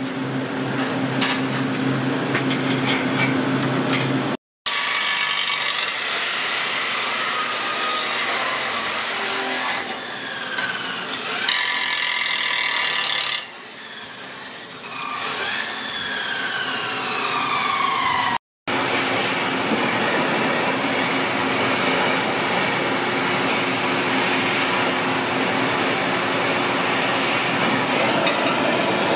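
A power cutting tool running hard against metal during exhaust work, with several falling whines in the middle as the tool slows.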